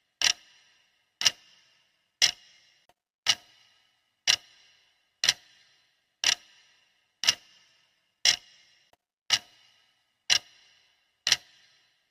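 Clock ticking evenly at one tick per second, each tick a sharp click with a short ringing tail.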